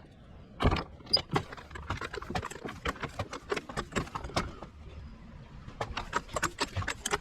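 Irregular clattering: many quick clicks and knocks of hard objects being handled and moved, with two louder thumps about a second in.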